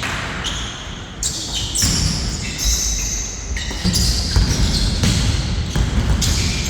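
Basketball bouncing on a court during a game, with repeated thumps.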